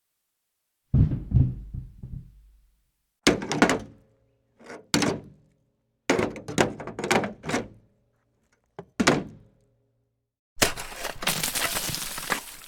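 Impact sound effects: a heavy low thud about a second in, then a run of sharp separate knocks that leave a short ringing tail, and a longer crashing clatter that starts near the end.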